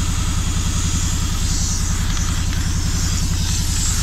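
An engine idling steadily with an even low putter, while water is poured into a five-gallon bucket of soured corn, a hissing rush that builds from about a second in.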